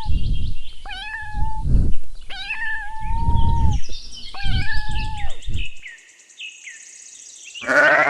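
A kitten meowing: four high-pitched meows, the longest about three seconds in, fading out after about six seconds. A loud different call starts just before the end.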